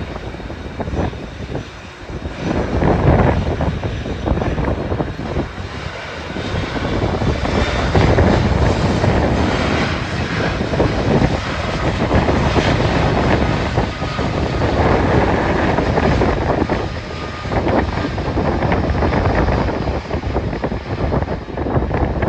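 Jet aircraft engines at the airport, growing louder from about eight seconds in and holding, mixed with wind buffeting the microphone.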